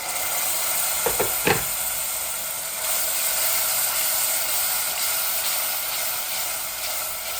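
Curry masala of onion and spices sizzling and hissing in the pot with hot water just added to cook out the raw spice smell. There are a couple of knocks about a second in.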